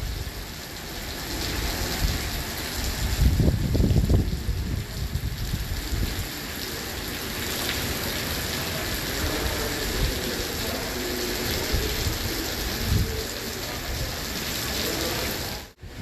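Typhoon rain falling in a steady hiss, with low gusts of wind rumbling on the microphone about three to four seconds in. The sound drops out suddenly just before the end.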